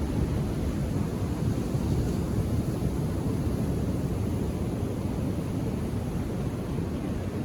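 Ocean surf on a beach: a steady low rumble of waves with no single break standing out.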